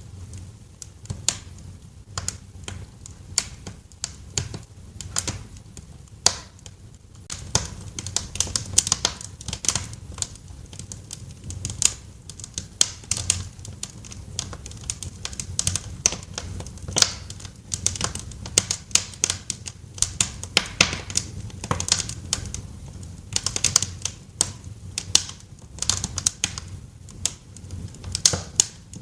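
Wood fire crackling in a fireplace: irregular sharp snaps and pops, many a second, over a low steady rumble.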